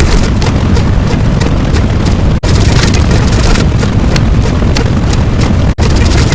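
Loud, dense noise sound effect, heaviest in the low end. It is broken by two brief dropouts, about a third of the way in and near the end, as if separate clips of a few seconds are joined.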